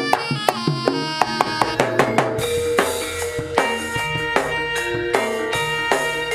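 Instrumental jaranan senterewe band music with drums: a quick run of sharp drum and ringing metal percussion strikes, then about two and a half seconds in a steady beat under long held tones.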